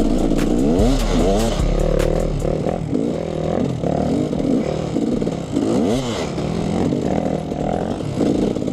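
Two-stroke enduro dirt bike engine, a KTM 300 EXC, being ridden with the throttle opened and closed again and again, its pitch rising and falling every second or so.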